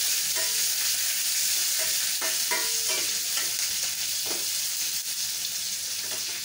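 Sliced onions, curry leaves and mustard seeds sizzling in hot oil in a stainless steel pot, with a spatula stirring and making short scrapes against the pot's side.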